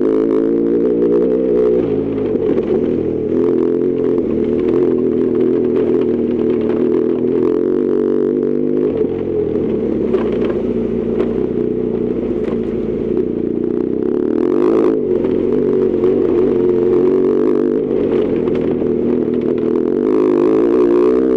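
BMW R1200GS Adventure's boxer-twin engine running steadily under way, its note dipping and rising again a few times with the throttle, with clatter from a rough forest road.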